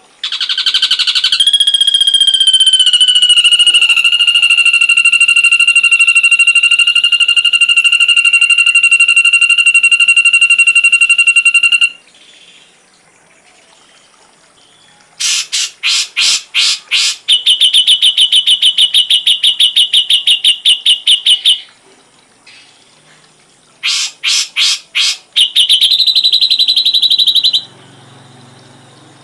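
Ashy drongo song: one long steady whistled note held for about eleven seconds, then, after a short pause, rapid runs of sharp repeated notes and fast buzzy trills in several bouts.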